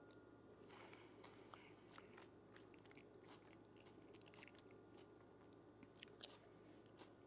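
Faint close-up chewing of a mouthful of pasta, with small scattered clicks of a fork against teeth and plate; a few louder clicks about six seconds in as another forkful is taken.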